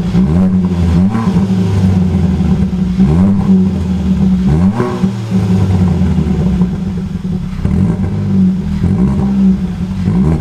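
Car engine running steadily, blipped into quick revs that rise and fall about one, three and five seconds in.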